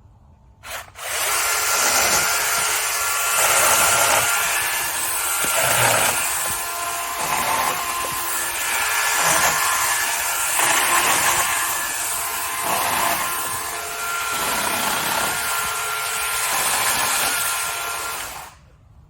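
DeWalt FlexVolt 60V Max 18-inch cordless electric chainsaw (DCCS672) cutting through a downed tree: a short blip of the trigger, then the motor and chain running with a steady whine for about seventeen seconds, the sound swelling and easing as the chain bites into the wood, before it stops abruptly near the end.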